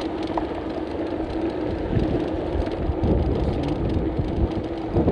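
Wind buffeting the microphone of a camera on a moving mountain bike, a dense low noise, with a faint steady hum underneath.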